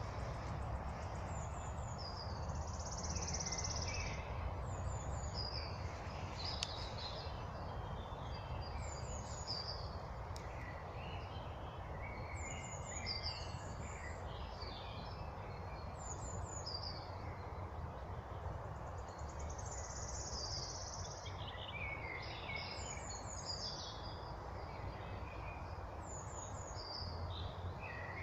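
Several songbirds singing in a spring forest, short chirping phrases repeating every second or two over a steady low background rush.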